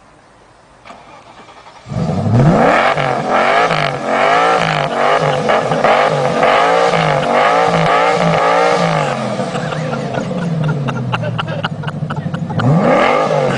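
Car engine catching about two seconds in with a rising flare, then revved up and down again and again in a steady rhythm. It settles to a steady idle, and near the end it is revved once more.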